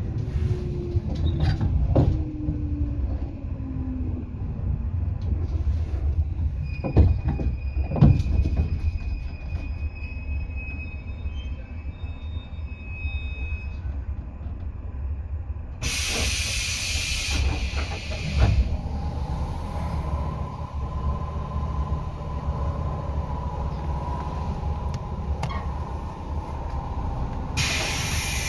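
JR 115 series electric train heard from aboard while running: a steady low rumble with wheels clacking over rail joints, a louder pair of clacks about seven and eight seconds in. A whine falls in pitch over the first few seconds, and there are two short bursts of loud hissing, one about halfway through and one near the end.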